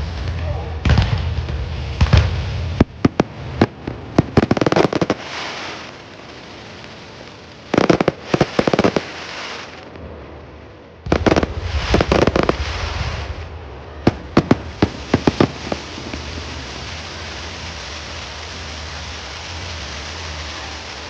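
Aerial fireworks going off in clusters of sharp bangs and crackles, with short lulls around six and ten seconds in, then a steady noisy hiss for the last several seconds.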